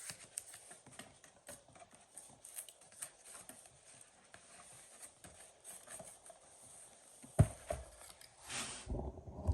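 Cardboard box being opened and handled: scattered light taps and clicks, a sharp knock about seven seconds in, and rustling near the end.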